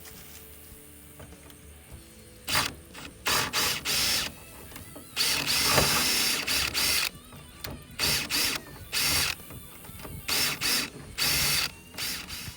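A power tool run in repeated short bursts, about eight of them, starting some two and a half seconds in, with one longer run in the middle. The bit is biting into a 1966 Chevy Corvair's seized trunk lock cylinder to break it free.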